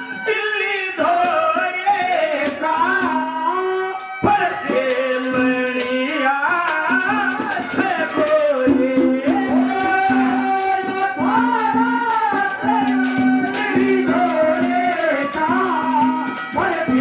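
Haryanvi ragni folk music: a winding melody over a repeated steady held note, with hand-drum accompaniment.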